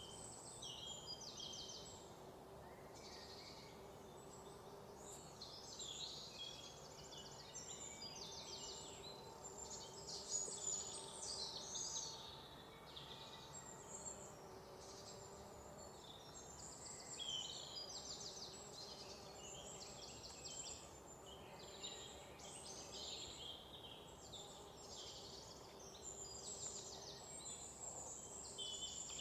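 Many birds chirping and trilling at once, calls overlapping without a break, over a low steady background of outdoor ambience.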